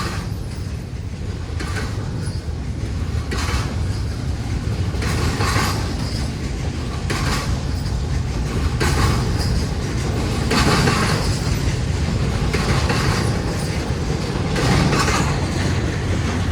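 Freight train of intermodal well and spine cars rolling past, a steady low rumble with wheel clacks repeating about every two seconds.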